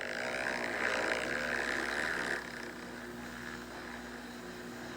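Motocross dirt bikes racing on the track, their engines heard at a distance as a steady drone that eases off a little after about two seconds.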